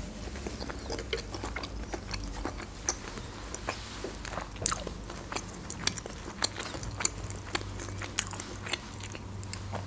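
Close-miked chewing of a mouthful of beetroot salad: small irregular clicks and smacks of the mouth and food, over a faint steady low hum.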